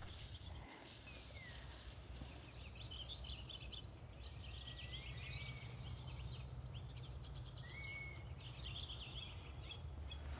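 A songbird singing one long song of rapid high-pitched trills and notes, starting about two seconds in and lasting about seven seconds, over a low steady rumble of outdoor background noise.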